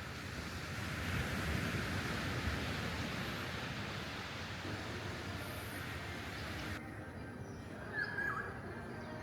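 Steady rushing outdoor noise that cuts off abruptly about two-thirds of the way through. A quieter background follows, with birds chirping a few times near the end.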